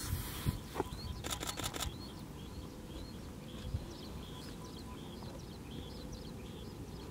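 Wetland ambience with a distant bird giving a steady series of short, high chirps, about two to three a second. A brief rattle of camera-handling clicks comes about a second in.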